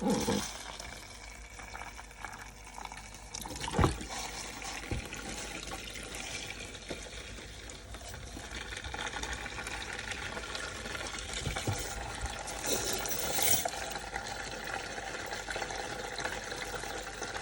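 Water running from a tap and splashing as tumbled jewellery is rinsed under it, a little louder in the second half. A sharp knock about four seconds in.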